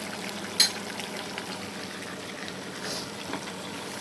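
Squid sizzling as it fries in a pan and is stirred, with a steady hiss throughout. A sharp knock, the loudest sound, comes about half a second in, with a few fainter ticks near three seconds.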